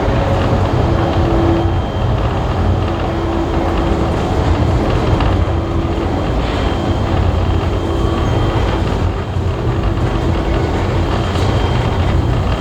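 Heritage railway passenger carriage running along the track, heard from on board: a steady rumble of wheels on rail with a low hum that comes and goes.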